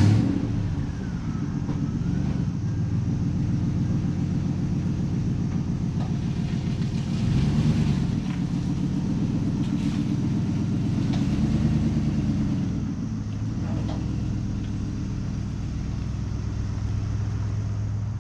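A vehicle's engine running while driving, its low drone rising and falling in pitch as it speeds up and eases off, with a sudden loud sound right at the start.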